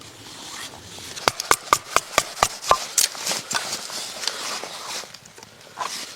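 A quick run of about eight sharp knocks, roughly five a second, followed by a couple of seconds of rustling.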